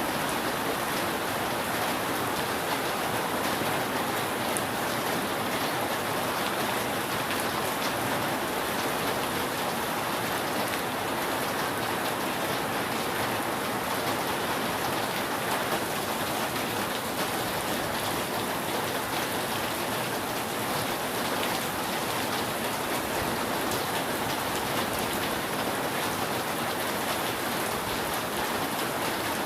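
Steady rain falling on a roof: an even, unbroken hiss with scattered faint drop taps.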